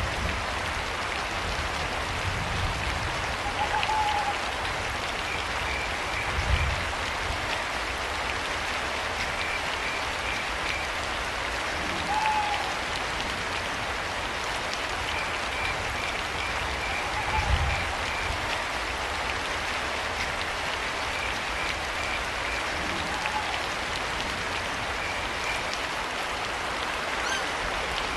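Steady rain falling, with a cricket chirping in short trains every few seconds and an owl calling briefly a few times. A few low rumbles stand out above the rain.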